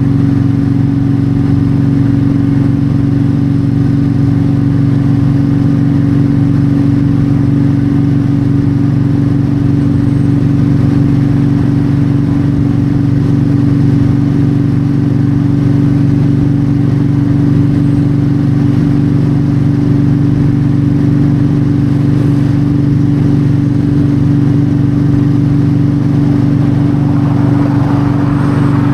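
Yamaha V-Star 1300 V-twin cruiser engine running at a steady highway speed, with wind and road noise over it. A brief rush of noise swells near the end.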